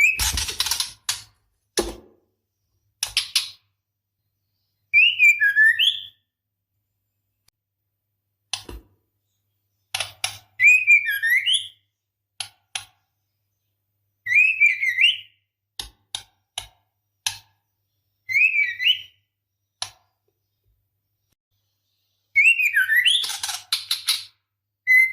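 Female white-rumped shama (murai batu) in breeding condition calling for a male: a short whistled, warbling phrase every four seconds or so, with dry clicking ticks between the phrases.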